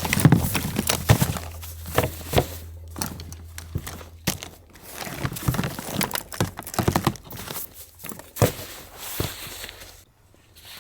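Camping gear being handled: irregular knocks, clacks and rustling, with footsteps, as a tent and camp are set up.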